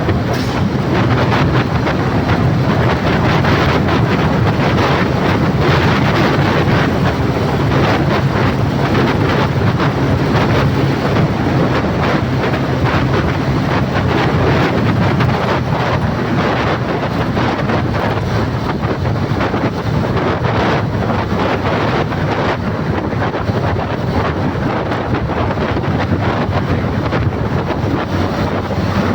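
A vehicle's engine running steadily under heavy wind buffeting on the microphone, a loud unbroken noise with no change throughout.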